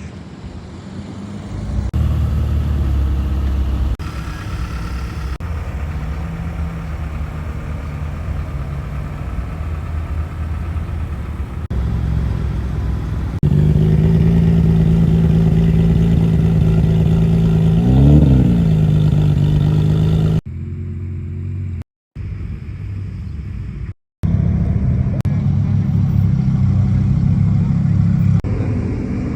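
Sports car engines running at low revs in a string of short clips, with one quick throttle blip that rises and falls about two-thirds of the way through.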